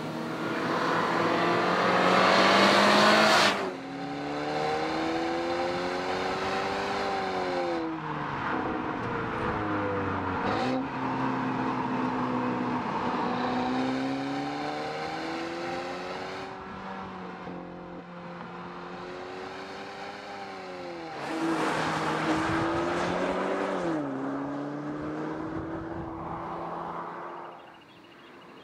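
Mercedes-Benz CLA's turbocharged four-cylinder engine and exhaust, accelerating and easing off over several runs, its pitch climbing and dropping again each time. Two loud close passes with rushing road and wind noise come at the start and about two thirds of the way through.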